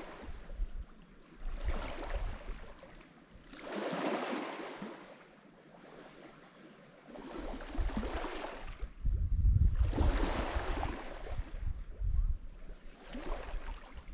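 Lake Michigan waves breaking and washing up the shore in repeated surges, about five in turn. Each one swells and then drains away, and the loudest comes just past the middle.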